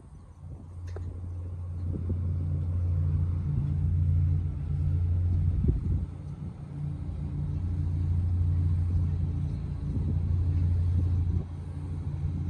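Low, steady drone of the WightLink car ferry's engines as the ship comes in to dock. It grows louder over the first couple of seconds and dips briefly near the end.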